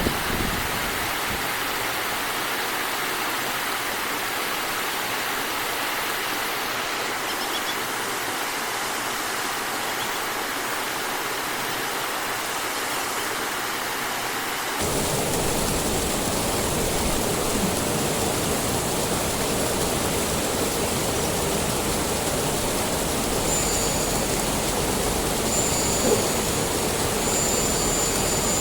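Rushing water of a river waterfall, a steady even rush. About halfway through it cuts abruptly to a louder, fuller rush.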